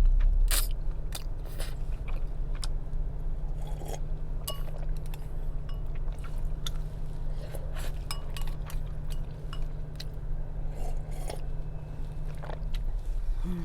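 Close-up eating sounds: chewing udon noodles, with chopsticks clicking and scraping against a dish, over a steady low hum that stops near the end.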